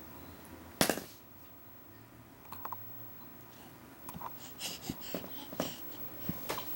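Ten-month-old baby making his peculiar noise: a run of short, breathy, wheezy sounds from about four seconds in. A single loud, sharp sound comes about a second in.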